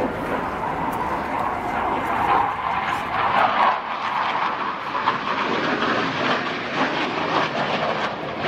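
Hawker Hunter jet flying its display: a steady rushing jet noise that swells and eases a little.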